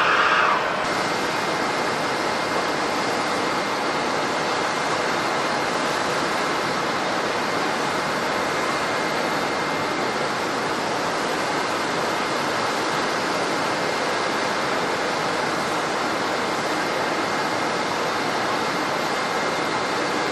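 Airliner jet engines running steadily: an even rush with a faint high whine. A louder sound cuts off abruptly less than a second in.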